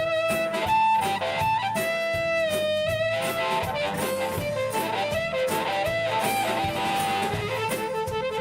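Live rock-blues band playing an instrumental break: a lead line of long held and bent notes over guitar and a steady drum beat.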